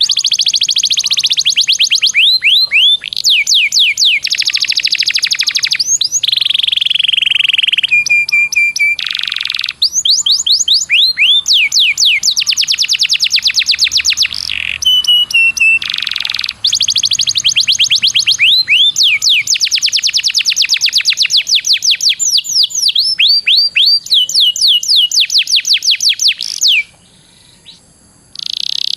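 Domestic canary singing long rolling trills: fast runs of repeated rising notes alternating with steady held whistles, with a brief pause near the end.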